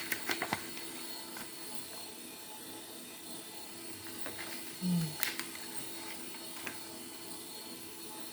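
A few light clicks and knocks from small model-engine parts being handled, over a faint steady hum.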